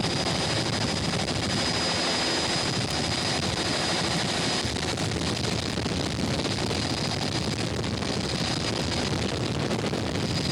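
Steady vehicle running noise with a fast, even rattle and a faint high whine.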